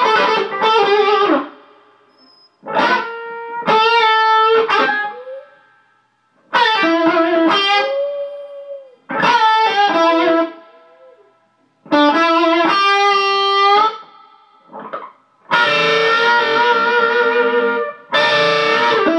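Electric guitar playing blues licks in short phrases a second or so apart, notes stepping up and down and several phrases ending in a bent note.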